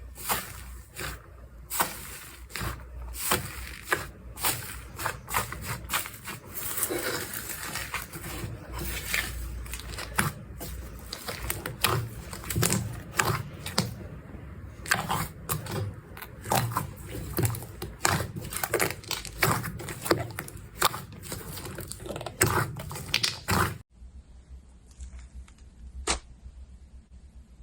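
Slime being squeezed and worked by hand, giving a dense, irregular run of clicks, crackles and pops. About four seconds before the end it cuts to a quieter stretch with only a few soft pops.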